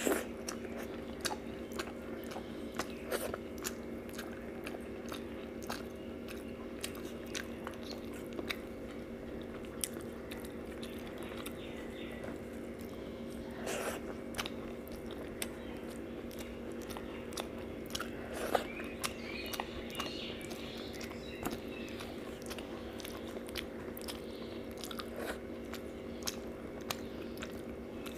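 Close-up chewing and mouth clicks of a person eating rice and fish curry by hand, with many small sharp clicks. A steady low hum runs underneath.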